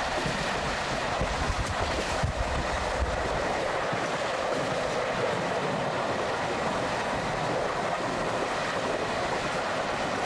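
Passenger train running along the track: a steady noise of wheels and carriages, with a few sharp clicks in the first three seconds. The deepest part of the noise fades about four seconds in.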